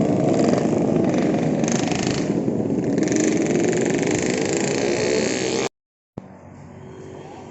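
Motorcycle running along the road, a steady engine-and-road rumble with wind on the microphone. It cuts off abruptly near the end, and after a brief gap a much quieter steady noise follows.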